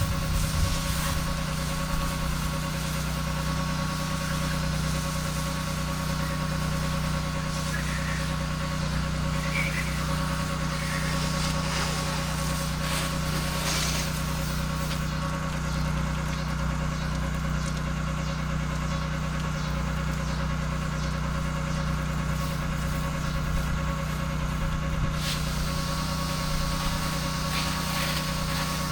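Pressure washer engine and pump running steadily at a constant pitch, with a hiss over the top.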